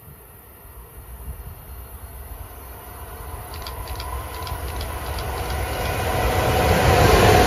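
Amtrak Acela Express high-speed trainset approaching, its rumble and rushing rail noise building steadily louder as it nears. A few faint high ticks come about halfway through.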